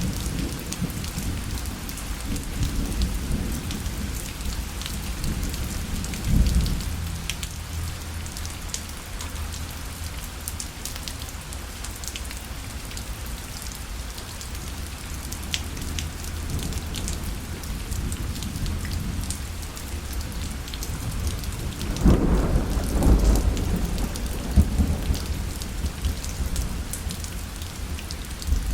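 Rain falling steadily on a parasol, with many fine drop ticks over an even hiss. Low rumbles of thunder swell about six seconds in and again, louder, from about twenty-two seconds in.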